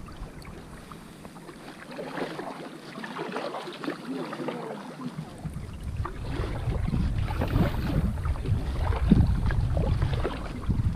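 Water splashing and lapping against a kayak, with wind rumbling on the microphone. The wind rumble is absent for the first few seconds and comes back about five seconds in.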